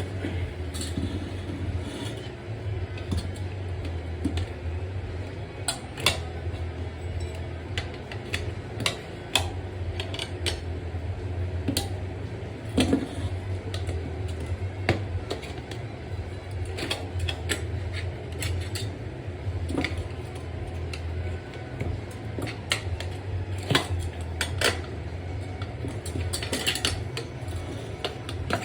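Metal tools clinking and knocking against a dirt bike wheel rim at irregular intervals while the tire is worked off by hand, over a steady low hum.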